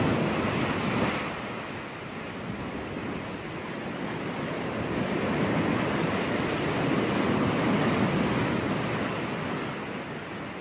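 Ocean surf: waves breaking and washing up a beach in a steady rush. One wash fades about a second in, and another swells through the middle and eases off near the end.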